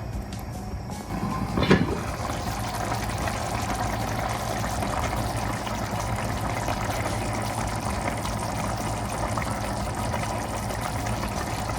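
Water running steadily, starting about a second in with a sharp knock just after it begins.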